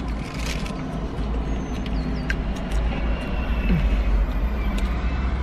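Low, steady rumble of a car engine idling, heard inside the car's cabin, with a few faint crinkles of a paper food wrapper.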